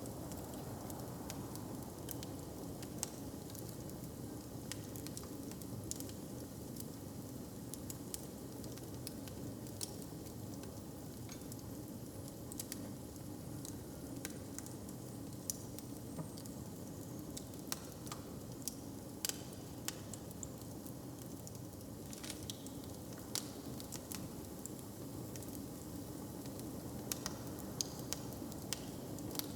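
Log fire crackling in a hearth: irregular sharp pops and snaps over a steady low rumble.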